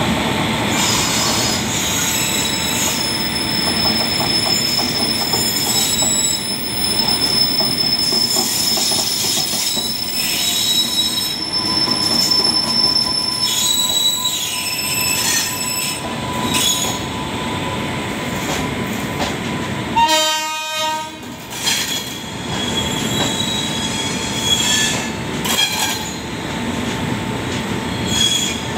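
Passenger train behind a WAP-7 electric locomotive rolling slowly into a platform, its wheels rumbling and clattering with high-pitched squeals coming and going. A short horn blast sounds about two-thirds of the way through.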